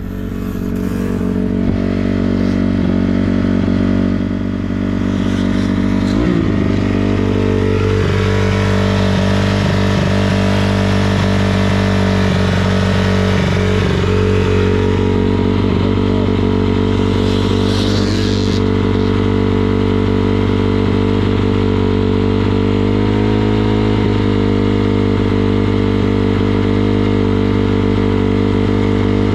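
Dirt bike engine running loud and steady, shifting pitch about six seconds in and again near the end.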